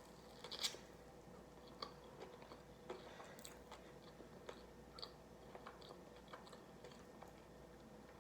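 Faint eating sounds: quiet chewing with scattered small mouth clicks, a slightly louder one about half a second in.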